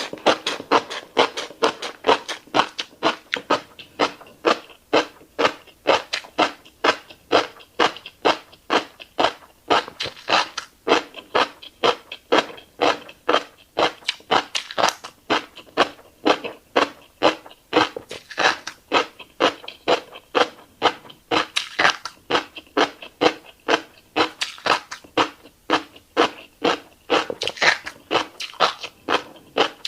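Close-up chewing of a mouthful of fish roe, wet crunching and popping sounds in a steady rhythm of about two to three chews a second.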